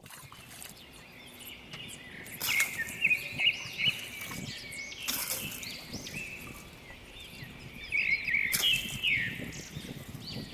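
Small birds chirping over a quiet outdoor background, in quick repeated short calls with busier clusters around three and eight seconds in. Three brief noisy bursts cut across the calls.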